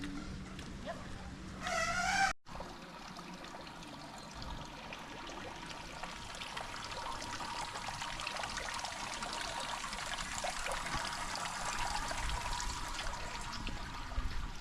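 Water trickling and splashing, a steady rushing that grows gradually louder over several seconds. About two seconds in there is a short wavering call, and then the sound drops out for an instant.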